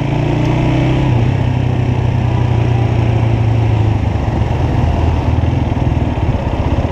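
Motorcycle engine running at low, steady revs, an even pulsing drone with no rise or fall.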